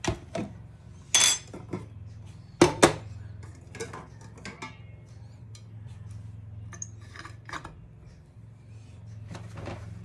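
Kitchenware clinking and knocking while mushrooms are put up in jars: scattered sharp knocks and clinks, one ringing clink about a second in and the loudest knocks near three seconds, over a steady low hum.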